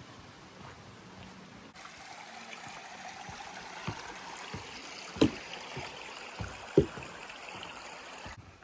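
A stream running steadily, cutting in about two seconds in and cutting off just before the end, under a hiker's footsteps on the trail, two of them much louder midway.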